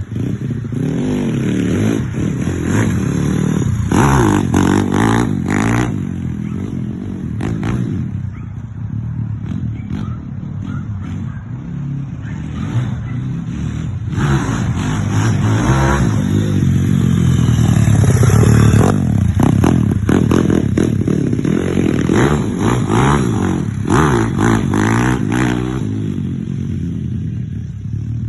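160cc pit bike's single-cylinder four-stroke engine running and being revved up and down again and again, with a few rattly clicks over the engine note.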